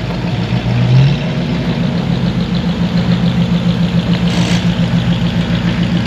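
A vehicle engine idling, a steady low tone with a regular quick pulse. A brief hiss about four seconds in.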